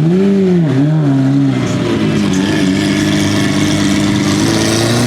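A performance car engine revving: two quick blips rising and falling in pitch in the first second and a half, then held at a steady pitch.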